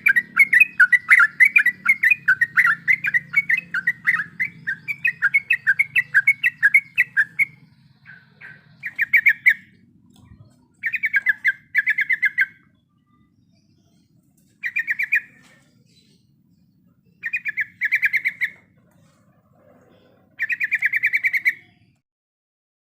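Trucuk (yellow-vented bulbul) singing: a long run of rapid chattering notes, then from about eight seconds in, a series of short rattling trills, each about a second long, with pauses between them.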